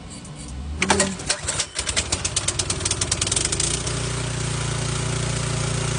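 Troy-Bilt snowblower's 179cc single-cylinder engine starting about a second in, firing unevenly at first and speeding up, then settling into a steady run after about four seconds. It now runs after a carburetor cleaning, a new spark plug and fresh oil; the bad carburetor had been flooding the crankcase with gas.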